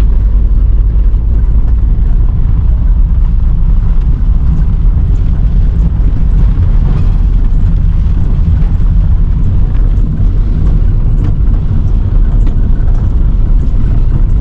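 Loud, steady low rumble of a car driving, with road and wind noise heard from inside the cabin.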